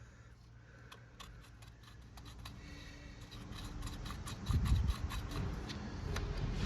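Short metallic clicks and scrapes of a tungsten-tipped file working out the adjustment slot in a Honda CB400F's ignition back plate, with a couple of dull thumps of handling, the loudest about four and a half seconds in.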